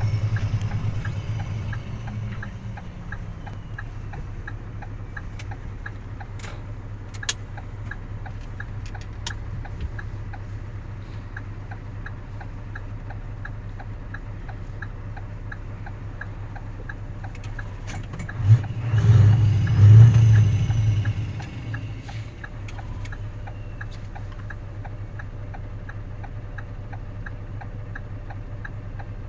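Scania R620's V8 diesel engine idling steadily, with an even ticking running over it. The engine settles down from a higher level in the first couple of seconds, and a louder swell of engine sound comes about nineteen to twenty-one seconds in.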